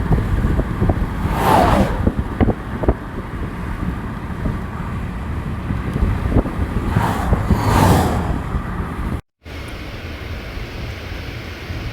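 Steady road and engine noise from a moving vehicle, with two louder rushing swells about one and a half and seven and a half seconds in. The sound drops out for an instant a little past nine seconds, then the road noise goes on.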